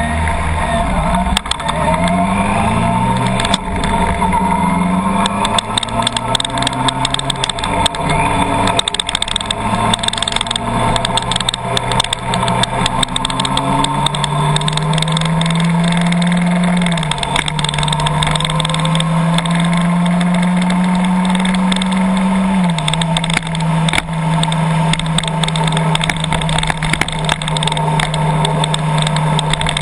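Car engine pulling through the gears: its pitch climbs and then drops sharply at each shift, twice in the second half, then holds steady. Many quick sharp ticks sound throughout.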